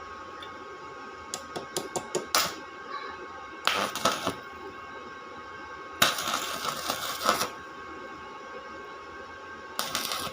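Hand-tool work noises: a quick run of clicks or taps, then three bursts of harsh scraping or cutting, the middle one the longest, over a steady hum.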